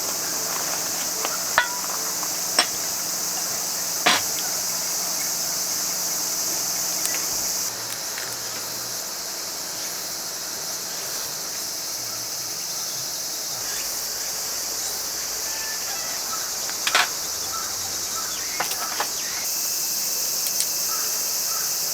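Steady chorus of crickets chirping, with a few sharp clicks and taps scattered through, the loudest about seventeen seconds in.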